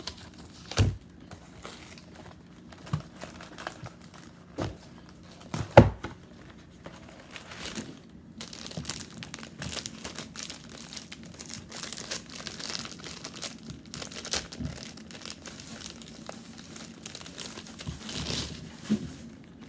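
Plastic wrapper of a frozen fruit bar being handled and torn open, crinkling steadily from about eight seconds in, after a few sharp knocks of handling, the loudest about six seconds in.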